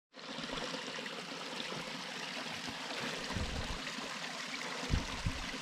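Mountain stream rushing steadily over rocks, with a couple of dull low thumps in the second half.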